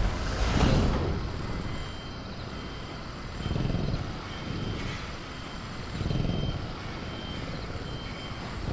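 A vehicle's reversing alarm beeps faintly at a steady high pitch, about once a second, over a low rumbling background that swells now and then.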